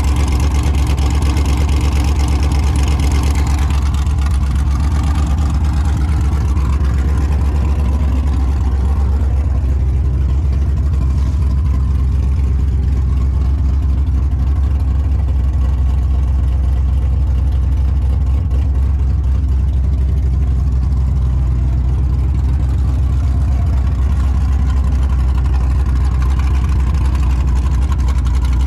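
Cammed 5.3-litre LM7 V8 of a 2000 Chevrolet Silverado running loud at idle through long-tube headers with no exhaust fitted. The sound eases a little about eight seconds in, then runs steady.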